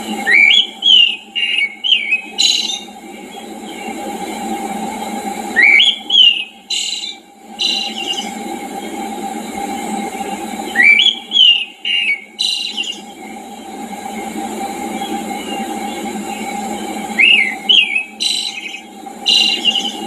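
A songbird repeating a short, loud whistled phrase, a quick rising note followed by a few quicker notes, four times at intervals of about five to six seconds. Briefer, higher buzzy calls come in between, over a steady low background rush.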